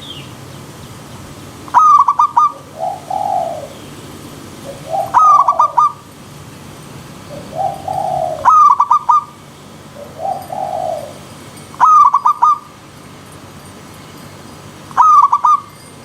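Zebra dove (perkutut) cooing: a short phrase of quick staccato notes, repeated five times about every three and a half seconds, with softer, lower calls between the phrases. A faint steady stream hiss runs beneath.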